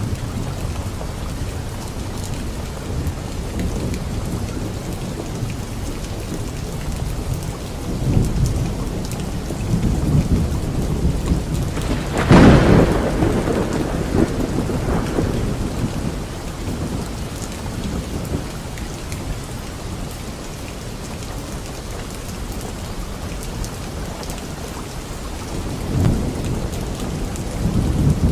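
Steady light rain falling on leaves, with thunder rumbling. About halfway through, a sharp thunderclap, the loudest moment, cracks and rolls away over a few seconds, and more low rumbles come near the end.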